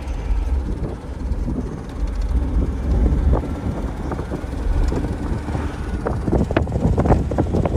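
Car driving on the road: a steady low rumble of engine and road noise, with a few knocks and rattles near the end.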